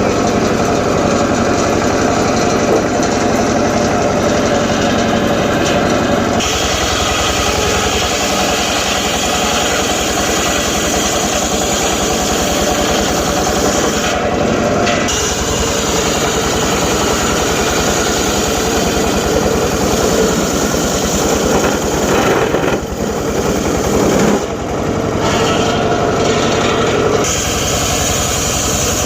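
Homemade circular saw running continuously while cutting teak wood, its sound shifting abruptly several times as the load on the blade changes.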